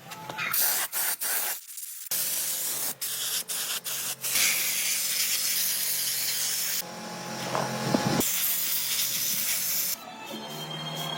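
Spray gun hissing in repeated bursts with short breaks between them, over a faint low hum.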